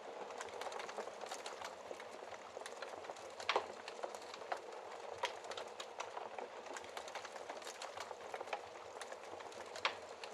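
Wood fire in a fireplace crackling: a steady hiss with frequent sharp pops and snaps, the loudest about three and a half seconds in and another just before the end.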